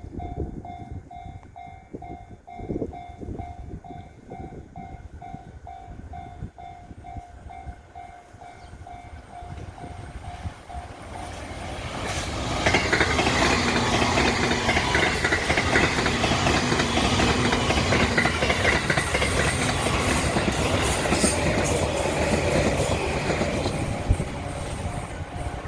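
Railway level-crossing warning bell ringing about twice a second. Then, from about 12 seconds in, a JR E353 series limited express train of two coupled sets runs loudly over the crossing for about thirteen seconds with clattering wheels on the rails. The bell is heard again as the train clears.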